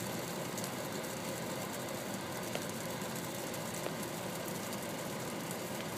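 Steady running of an idling vehicle engine with an even hiss.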